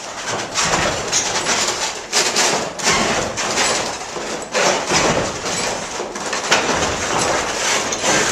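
Water-powered sawmill machinery running, its wooden gears and mechanism knocking and clattering irregularly.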